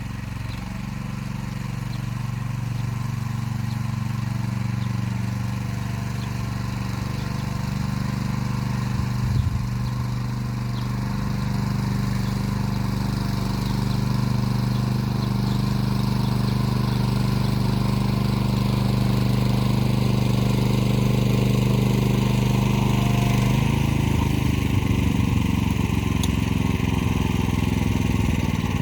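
Motor Sich walk-behind tractor engine running steadily while pulling an arrow-type hiller through potato rows. Its note changes and turns rougher a little over three-quarters of the way through.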